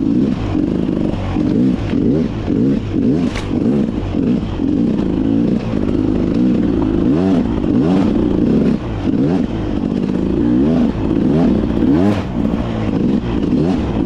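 Beta 300 RR two-stroke dirt bike engine revving up and down again and again as it is ridden, with a few sharp clicks and clatter over it.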